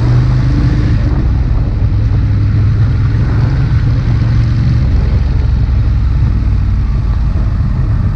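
Ducati Monster 821's L-twin engine running steadily under way, its note dipping slightly about five seconds in.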